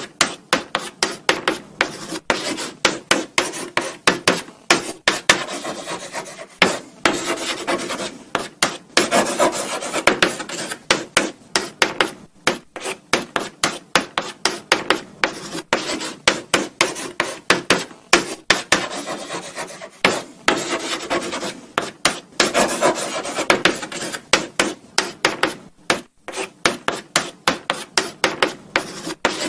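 Chalk writing on a blackboard: a fast run of short scratching strokes, with longer unbroken scrapes about a third of the way in and again past two-thirds.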